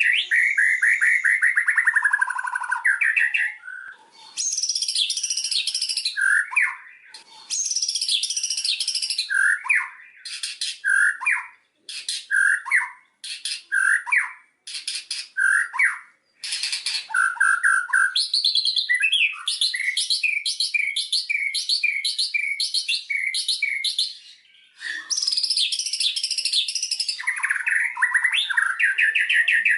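White-rumped shama singing a long, varied song of whistled phrases, rapid trills and runs of quick repeated notes, broken by short pauses.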